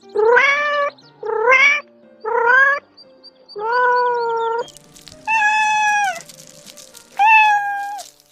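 An animal calling: six separate pitched cries, the first few short and rising, the later ones longer and held before dropping away, with faint steady background tones underneath.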